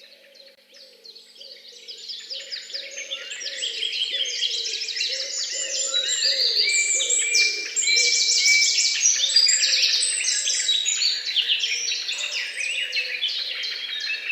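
Several songbirds singing at once: a dense chorus of quick trills and chirps that fades in over the first few seconds, with a faint, lower wavering tone underneath.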